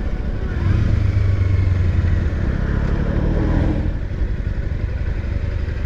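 Kawasaki Versys X300's parallel-twin engine running as the motorcycle rides slowly. The engine sound eases off and drops a little in level about four seconds in.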